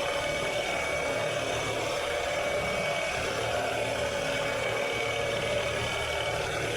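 Lawn mower engine running steadily under a steady high whine.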